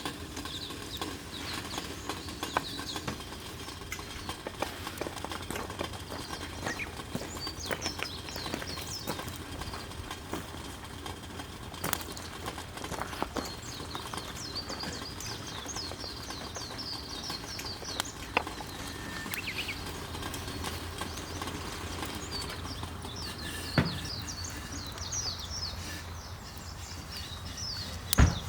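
Outdoor ambience of rapid, high chirping calls repeating throughout, with a few sharp pops or cracks and a steady low hum underneath.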